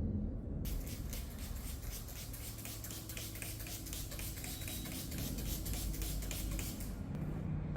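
A fast run of light scratching strokes, as of something rubbed or scrubbed by hand, starting about half a second in and stopping near the end.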